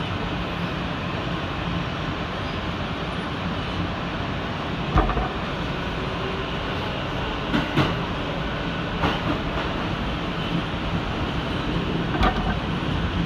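New York City subway train heard from inside the car: a steady rumble and hiss of the train running on the rails, with a few sharp clanks about five, seven and a half, nine and twelve seconds in.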